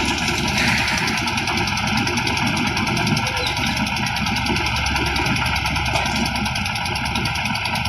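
Concrete mixer machine running steadily, its engine running with an even pulsing beat.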